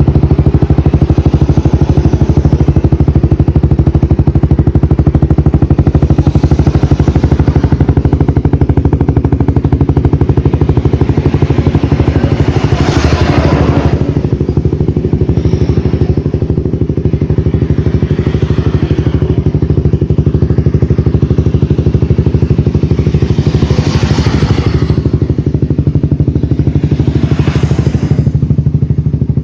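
Honda CBR 150's single-cylinder engine idling steadily through an aftermarket trioval muffler on a full stainless exhaust system, with a few short louder rushes of noise, the strongest about 13 seconds in.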